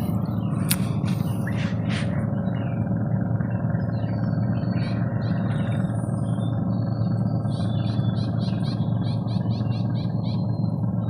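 Birds chirping over a steady low rumble of background noise, with a quick run of repeated chirps in the second half. A few sharp clicks sound in the first two seconds.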